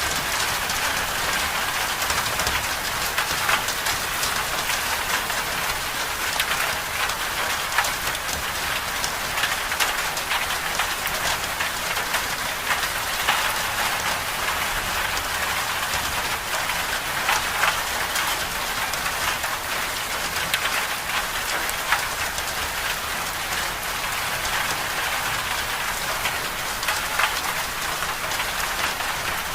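Winter storm ambience: a steady, dense hiss of precipitation pattering on a surface, full of tiny ticks.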